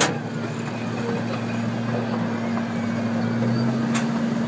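Park train running, a steady engine hum with a sharp click at the start and another near the end.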